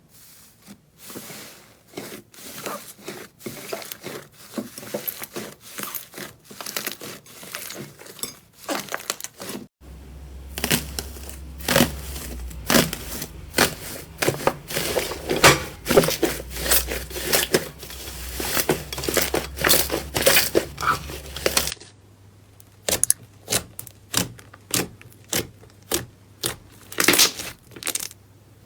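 Hands squeezing, poking and stretching slime: a quick, irregular run of sticky crackles and pops. The sound changes abruptly twice, as between clips, and a low hum sits under the middle part.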